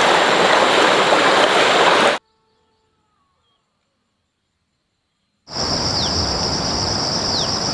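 Steady rushing noise that cuts off abruptly about two seconds in. After about three seconds of near silence it starts again, now with a steady high-pitched whine on top and two brief falling chirps.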